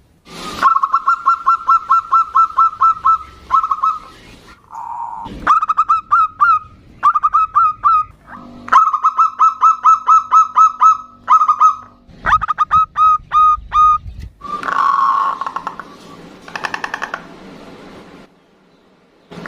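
Zebra doves (perkutut) calling back and forth in repeated bouts of rapid staccato cooing notes, about five a second, each bout lasting a second or two. Near the end comes a rougher, buzzier call.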